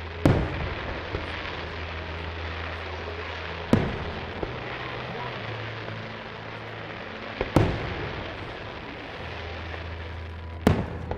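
Aerial firework shells bursting: four loud, sharp bangs spaced about three to four seconds apart, each trailing off briefly, over a steady background hiss.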